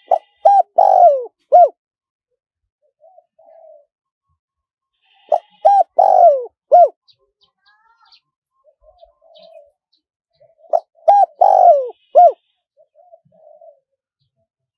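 Spotted dove cooing: three loud phrases, each a quick run of a few notes, about every five seconds, with faint soft notes between them.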